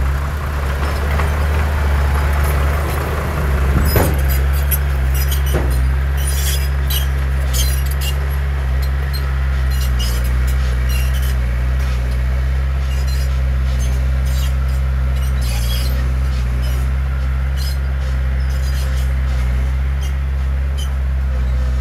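Heavy diesel engine of earthmoving machinery running steadily with a low drone, with scattered light clicks and clatter and one sharp knock about four seconds in.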